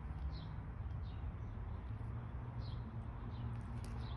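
Small birds chirping: short, high, falling chirps about once a second, over a low steady rumble.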